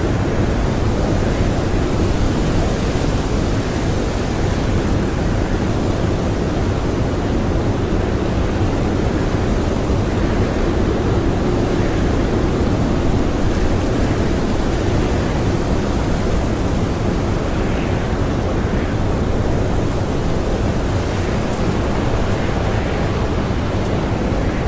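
Blizzard wind blowing steadily: a dense, even rush with a low rumble, unbroken throughout.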